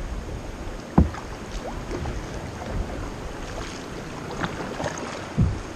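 Kayak being paddled: paddle strokes splashing, with two short low thumps, one about a second in and one near the end, over a steady rush of wind on the microphone and running water.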